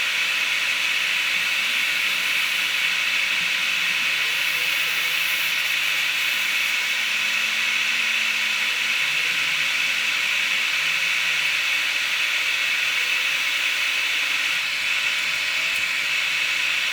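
Hot-air rework station blowing a steady hiss while reflowing the solder balls on an iPhone logic board.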